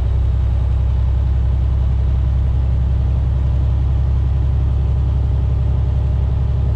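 Semi-truck diesel engine running steadily while driving, a constant low drone with road rumble heard from inside the cab.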